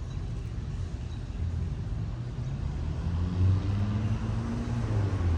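A motor vehicle's engine running nearby over a low rumble, growing louder and rising slightly in pitch from about a second and a half in.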